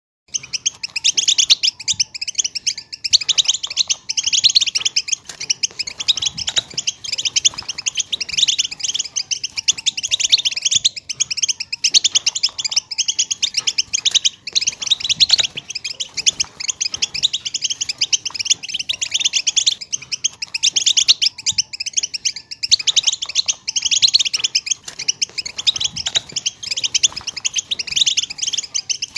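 European goldfinch song: a fast, unbroken stream of high twittering and chattering notes. It starts abruptly just after the beginning.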